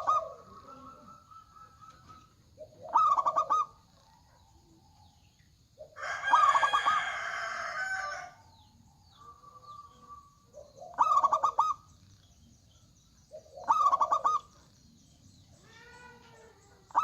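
Zebra doves (perkutut) singing: short pulsed cooing phrases repeated about every three seconds. About six seconds in comes a louder, longer call lasting some two seconds.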